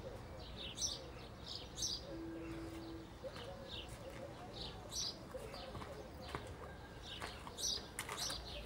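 Small birds chirping: short, high calls repeating every half second or so. A brief steady tone sounds about two seconds in.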